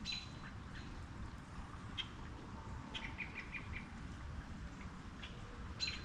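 Small birds chirping in short calls, with a quick run of about five chirps a little past halfway and a louder chirp near the end, over a steady background hiss.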